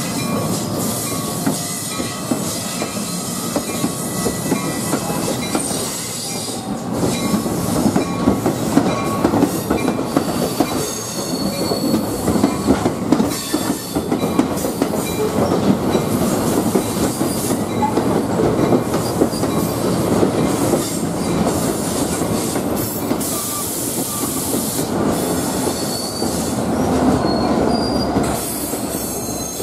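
NJ Transit passenger train cars rolling past at close range: a continuous rumble and clatter of wheels on rail, with thin high wheel squeals coming and going.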